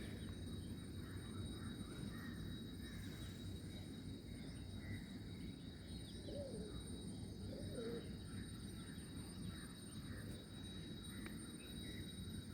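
Faint outdoor birdsong: scattered small-bird chirps, with two short low coos about six and eight seconds in, over a steady low background hum.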